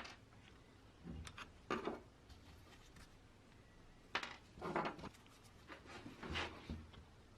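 Handling noises from work on an old electric fan: a few short scrapes and knocks, spaced a second or two apart.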